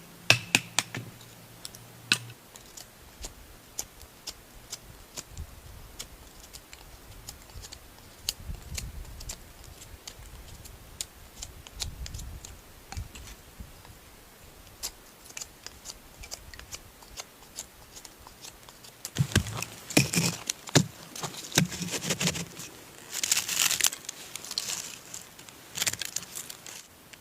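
Light handling sounds: scattered sharp clicks and taps with crinkling. Two busier bursts of rustling and clicking come about two-thirds of the way through and near the end.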